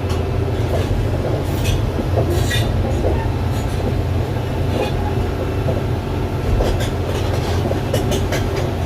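Doosan 420LC crawler excavator travelling: its diesel engine runs with a steady low drone while the steel tracks clank and squeal in short, irregular bursts.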